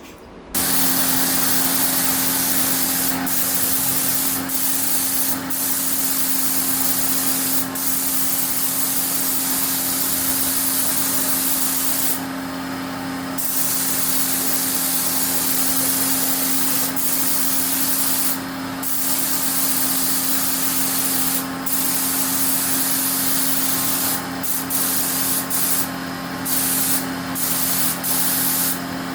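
Compressed-air spray gun hissing steadily, with a few brief breaks where the trigger is let go, over a steady low hum.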